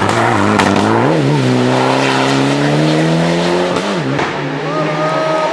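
Rally car engine revving hard along a stage, its pitch climbing steadily over two or three seconds, with a brief drop about a second in and another near four seconds in as the driver changes gear.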